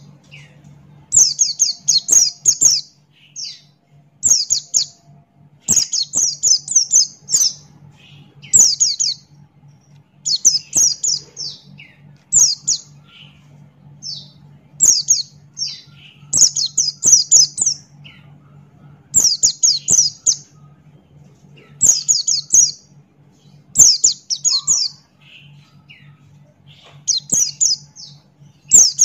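White-eye (pleci Buxtoni) singing in repeated phrases of rapid, high chirping notes, each phrase about a second long and coming every second or two. A faint steady low hum runs underneath.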